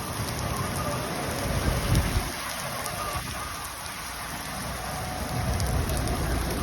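Heavy rain pouring down, a dense steady hiss, with a low rumble swelling about two seconds in and again near the end.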